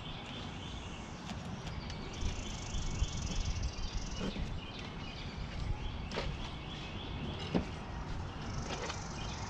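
Birds chirping in repeated short trills over a low rumble, with a few sharp clicks.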